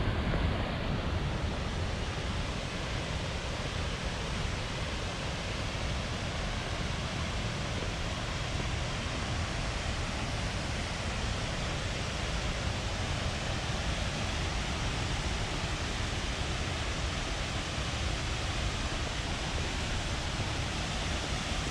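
Waterfall, a steady rushing noise of falling water.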